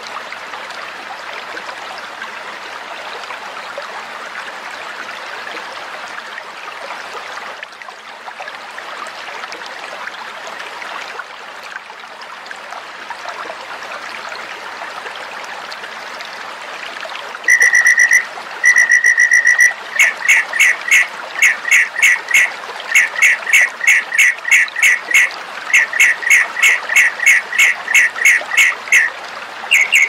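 Recorded bird calls over a steady watery hiss. After a long stretch of hiss alone, high whistled notes begin: two drawn-out whistles, then a fast run of short repeated notes in bursts, several a second.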